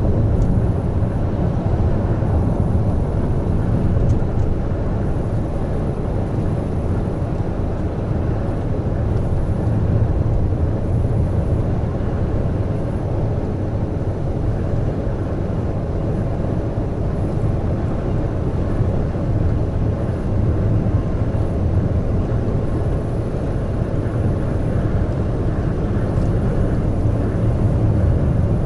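Heavy truck cruising on an expressway: a steady low engine drone with road and tyre noise.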